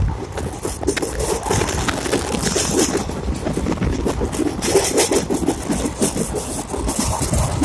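Moving passenger train's running noise: a continuous rumble with rapid rattling and clatter.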